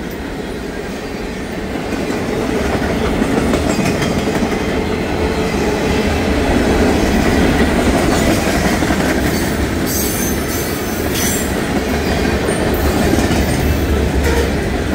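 Freight train passing at speed: steady rumble and clatter of loaded steel wheels over the rails as tank cars and boxcars roll by, with a few brief sharp clicks about ten to eleven seconds in.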